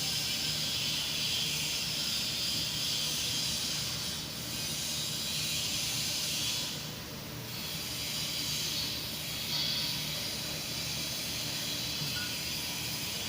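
A loud, steady hiss, like air or spray under pressure, that dips briefly about four, seven and nine seconds in.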